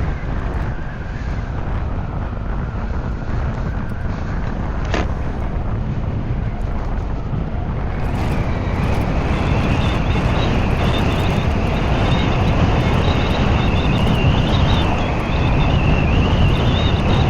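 Wind buffeting the microphone on a moving 96-volt electric motorcycle. About halfway through, a high, steady whine comes in, rising slightly in pitch, and the wind noise grows a little louder as the bike picks up speed.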